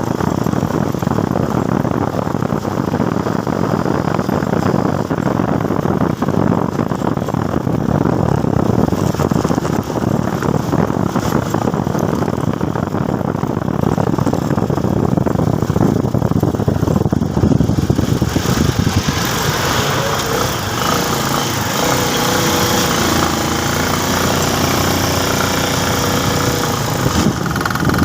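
Motorcycle running on the road, its engine under a steady rush of wind noise. About two-thirds of the way in, a brighter hiss and some wavering tones join in.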